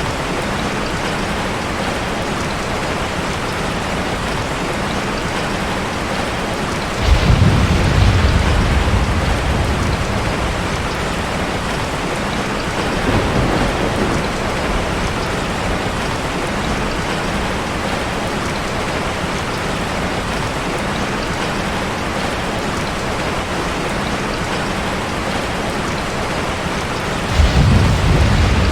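Heavy rain falling on a car as a steady hiss, with a roll of thunder about seven seconds in, a fainter rumble around the middle, and another roll of thunder near the end.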